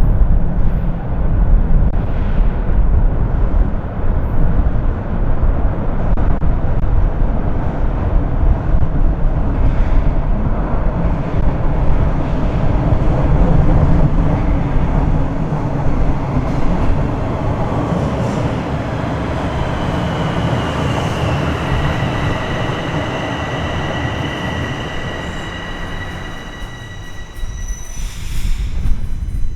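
Bombardier Toronto Rocket subway train running with a heavy rumble and wheel noise. About two-thirds of the way through, a steady electric motor whine comes in and the rumble fades as the train brakes into a station, with a brief hiss near the end.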